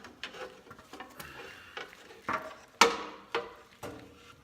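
A few sharp knocks and clanks of parts or tools being handled on a tractor, four in the second half, the loudest about three seconds in.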